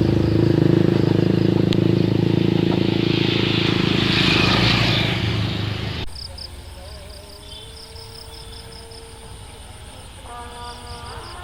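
Diesel train passing close, its engine running with a steady low drone while rail noise swells, cut off suddenly about six seconds in. Then a quiet background with insects chirping, and a melody begins near the end.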